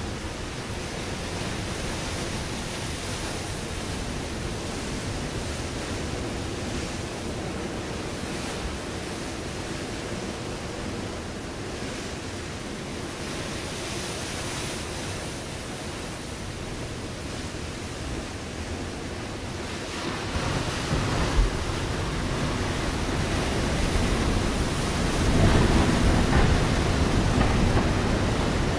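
Ocean waves washing onto a rocky shore, a steady hiss of surf that swells louder about two-thirds of the way through as a bigger wave breaks, with a sharp knock just after the swell begins.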